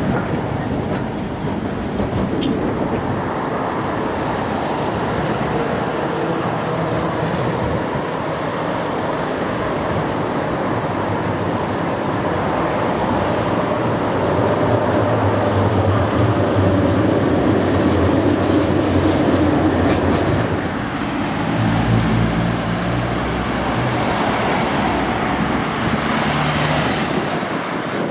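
Tram running on street track: a steady rumble of wheels on rail with a low motor hum that grows louder through the middle of the clip, and a brief deep rumble about two-thirds through.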